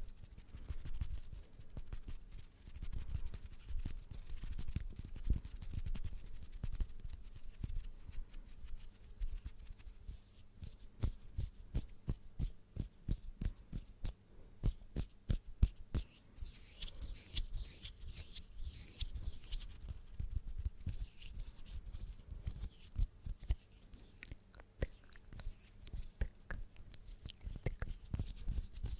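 Close-miked ASMR hand and mouth sounds: a dense, irregular run of soft clicks and taps with low thumps, and stretches of rubbing rustle.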